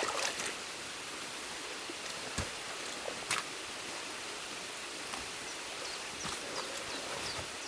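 Steady rush of stream water flowing through a beaver dam, with a few sharp clicks and knocks in the first half and faint high chirps later.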